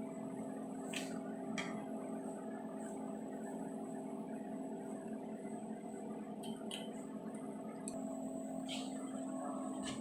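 Steady electrical hum from the repair-bench equipment, with a few short, light clicks scattered through it.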